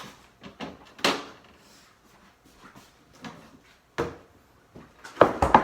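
Kitchen items being handled on a counter: a knock about a second in, another at four seconds, then a quick, louder cluster of knocks and clatter near the end.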